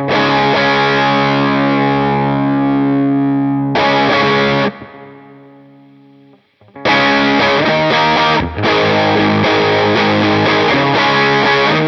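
Overdriven electric guitar through a Line 6 HX Stomp's Dumble-style amp model. A chord is struck and left to ring for about four seconds, and a short chord is choked off a second later. After a pause, a faster run of picked notes and chords follows.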